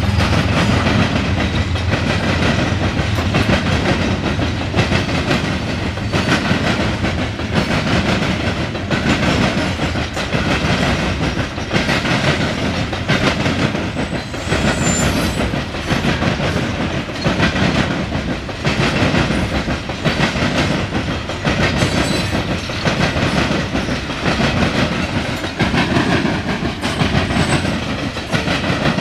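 Loaded coal hopper cars of a freight train rolling past, steel wheels clattering in a steady repeating rhythm. A diesel locomotive's low engine rumble fades out in the first second as it goes by.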